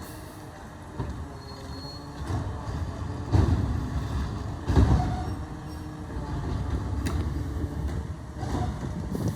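Garbage truck running, with two loud bangs about three and a half and five seconds in.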